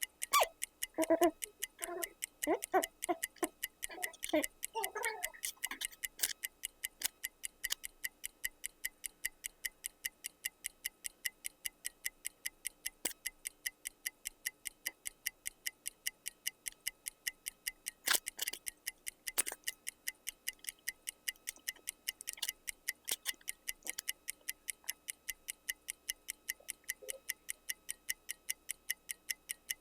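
Clock ticking in a rapid, even rhythm of several ticks a second, with two louder clicks about two-thirds of the way through. A person's voice makes wordless sounds in the first few seconds.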